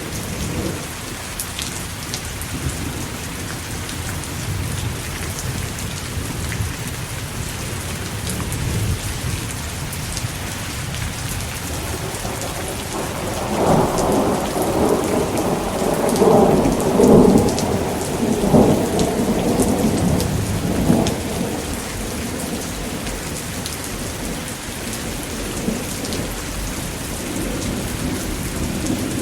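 Thunderstorm: steady heavy rain falling throughout, with a long roll of thunder that builds about halfway through, peaks and dies away over several seconds.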